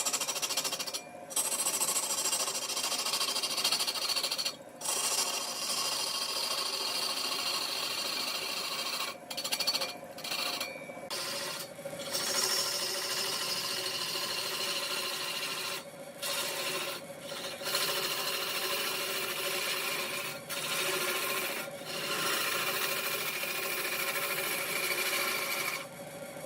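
A turning tool cutting wood on a large spinning wood lathe: a steady scraping hiss over a constant hum, broken by about a dozen short gaps when the cut stops.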